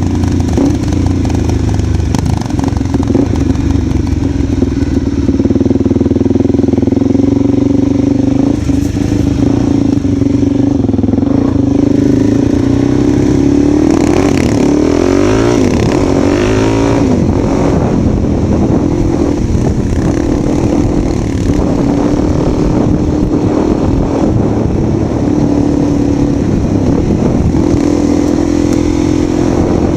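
Motorcycle engine running steadily as it is ridden, its pitch rising and falling briefly about halfway through.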